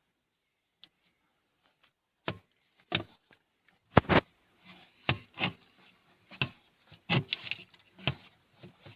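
A string of sharp, irregular knocks and taps, about a dozen, with the loudest pair about four seconds in.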